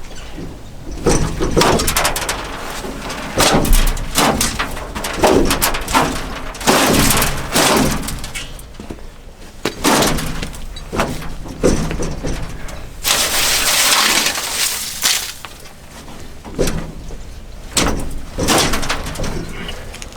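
Metal clanking, knocking and scraping of a combine's sieves being worked loose and slid out, with one longer scrape about two thirds of the way through.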